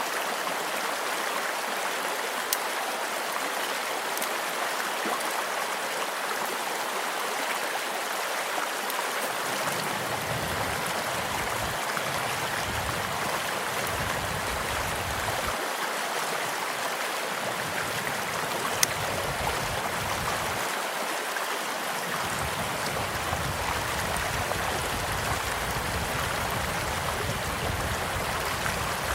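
Steady rushing of a gently flowing stream, with the occasional sharp pop of a crackling wood campfire; two pops stand out, one early and one about two-thirds of the way through.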